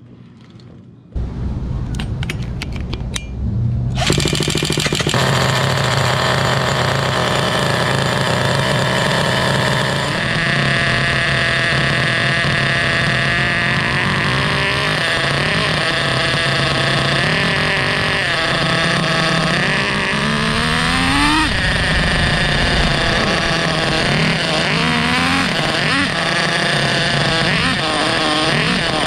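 HPI Savage X 4.6 nitro RC monster truck's small glow engine running hard, its pitch rising and falling over and over as the throttle is worked. It comes in about a second in and grows much louder at about four seconds.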